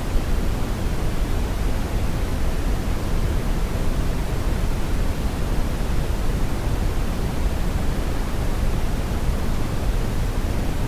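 Steady brown noise: an even, unbroken rushing hiss weighted heavily toward the low end.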